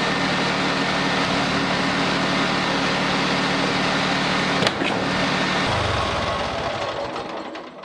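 Wood-Mizer LT40Wide portable band sawmill's engine running steadily. A sharp click comes just under five seconds in, then the engine is shut off and winds down to quiet over the last two seconds.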